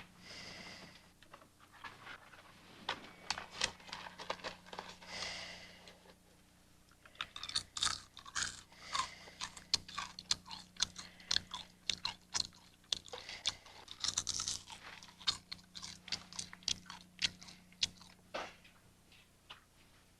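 A dense, irregular run of small sharp crunches and clicks, like close chewing, over a steady low hum; a couple of breathy rushes of noise come in the first few seconds.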